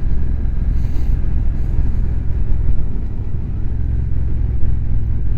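A motorcycle under way: a steady low rumble of engine and wind noise on the rider's microphone.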